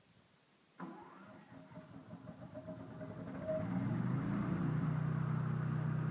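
The swing blade sawmill's engine starts suddenly about a second in and its speed builds over a few seconds, settling into loud, steady running.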